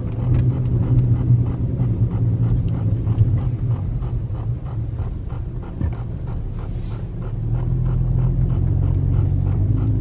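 Steady low rumble of a car idling, heard from inside the cabin, with an even pulsing about three times a second over it and a brief hiss about two-thirds of the way through.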